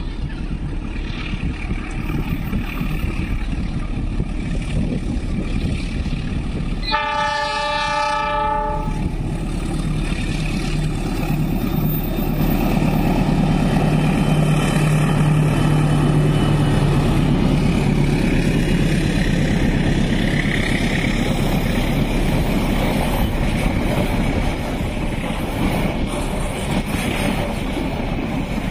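A diesel-hauled passenger train approaching and passing: the horn sounds once, about seven seconds in, for roughly two seconds. The locomotive's engine then passes with a loud, steady low drone, and the carriages follow, rolling by on the rails.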